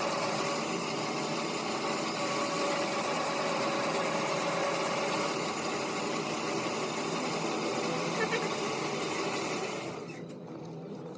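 A workshop machine's motor running steadily, then winding down and stopping about ten seconds in.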